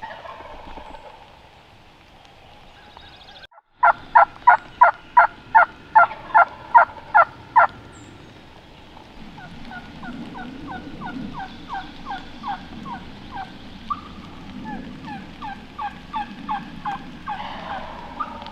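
Wild turkey yelping: a loud run of about a dozen evenly spaced yelps, about three a second, then a longer, softer run of yelps, over low background noise.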